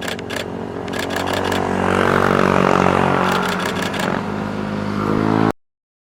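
Motorcycle engine running as it passes, growing louder toward the middle, with several quick runs of sharp clicks over it. The sound cuts off abruptly near the end.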